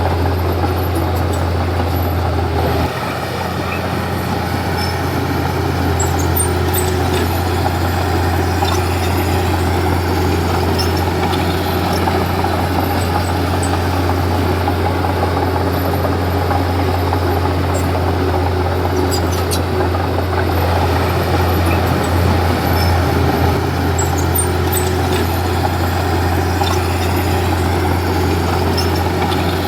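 Diesel engine of a Komatsu D31P crawler bulldozer running steadily with a low drone. About three seconds in, the engine note drops a little, then holds steady, with faint scattered clicks over it.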